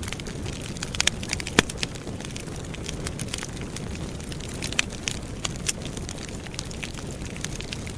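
Wood campfire burning: a steady low rumble of flame with irregular sharp crackles and pops, one louder pop about a second and a half in.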